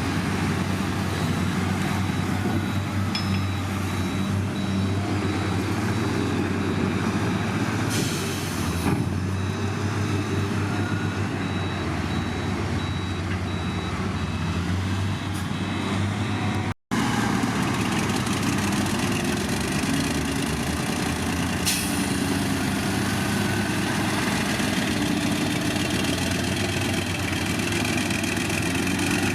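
Heavy diesel construction machinery running steadily under load, with a faint high beeping repeating for the first half. There are short hisses about eight seconds in and again around twenty-two seconds, and the sound breaks off for an instant about seventeen seconds in.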